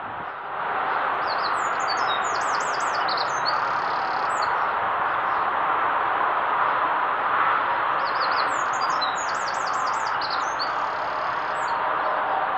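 A songbird sings the same short song twice, a run of quick high notes, about a second in and again about eight seconds in. Under it runs a steady rushing noise.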